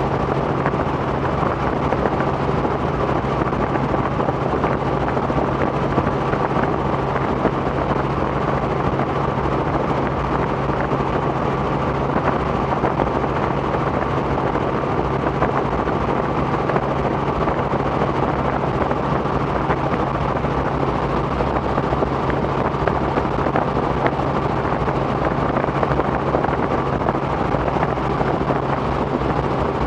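Robinson R44 helicopter in flight: the steady drone of its engine and rotor, with a constant low hum and no change in pitch or level.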